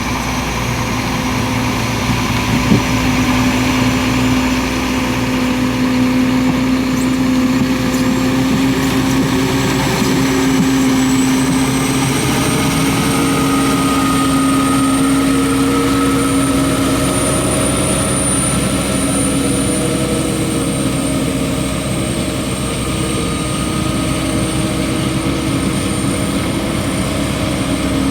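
PistenBully 600 Polar SCR snowcat grooming, its Mercedes-Benz OM 460 LA inline-six turbodiesel running steadily under load. A high turbo whistle rises in about ten seconds in and holds, over a steady whine from the hydraulic pumps.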